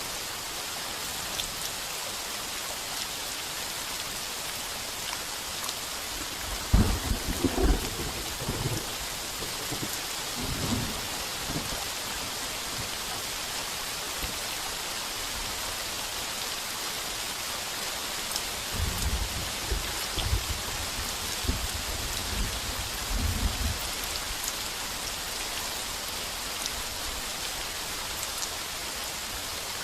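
Heavy rain pouring steadily on a tin roof, with two rolls of thunder: the first breaks sharply about a quarter of the way in and rumbles for several seconds, the second rumbles a little past halfway.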